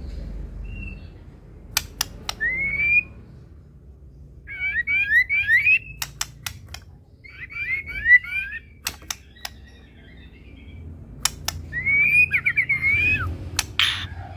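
White-rumped shama (murai batu) singing in three short bursts of quick, repeated rising whistles, with sharp clicks between the phrases.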